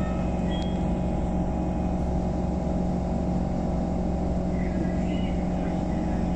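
Inside a moving SMRT C151 metro train car: a steady low hum and rumble of the running train, with no rise or fall in pitch.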